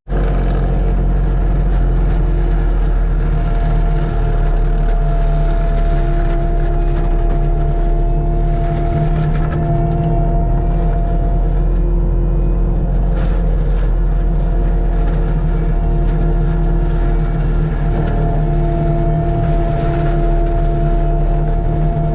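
Forestry mulcher's diesel engine running steadily at high speed. A higher steady whine over the engine note fades in and out a few times.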